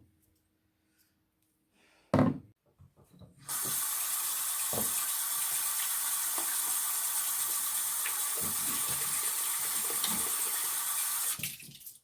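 A thump about two seconds in, then a water tap running into a sink for about eight seconds while hands are washed, cut off abruptly near the end.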